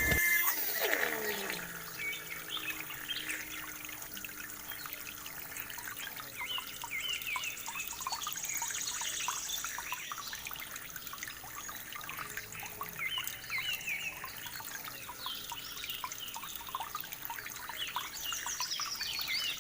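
A small motor cuts off and spins down with a falling whine in the first two seconds. Then water trickles and dribbles, with scattered small drips and splashes.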